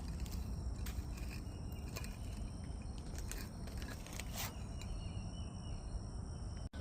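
Outdoor garden ambience: a steady low rumble with a faint, steady high-pitched insect buzz and a few soft rustles. The sound drops out for an instant near the end.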